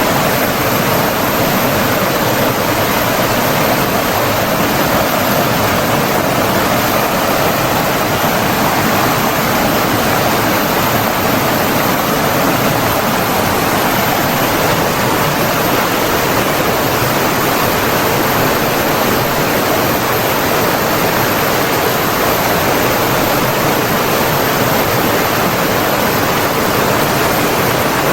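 Steady rushing of flowing water from a stream or small waterfall: a dense, even wash of sound with no breaks or changes.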